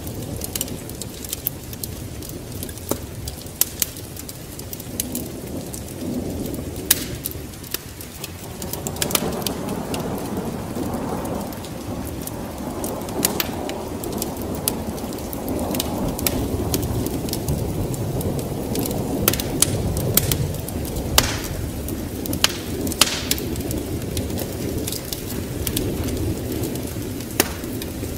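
Layered storm-and-fireplace ambience: steady rain with a low rolling rumble of thunder that swells about a third of the way in, and sharp scattered pops of a crackling wood fire.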